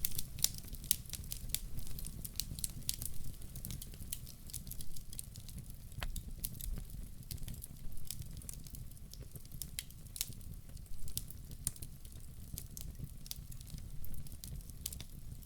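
Wood fire burning, with irregular sharp crackles and pops over a steady low rumble of flames.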